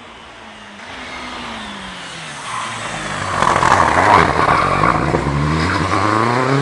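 Rally car at speed on a stage. Its engine note drops as it slows, and it is loudest as it passes about four seconds in. Then it accelerates hard, the engine pitch climbing.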